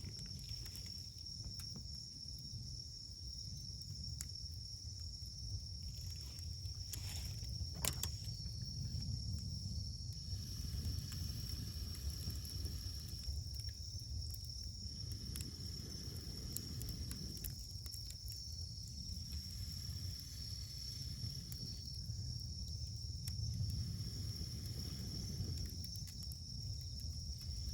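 Wood campfire burning, with sparse crackles and one sharp pop about eight seconds in, over a steady low rumble. A continuous high steady tone runs underneath.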